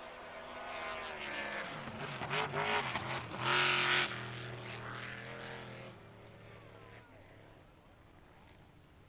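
Grand Prix racing hydroplane's engine passing by: it builds, shifts in pitch, is loudest about four seconds in, then fades away.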